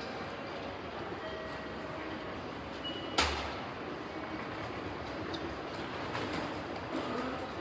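Railway station concourse ambience by the ticket gates: a steady wash of train and station noise, with a few short electronic beeps and one sharp click about three seconds in.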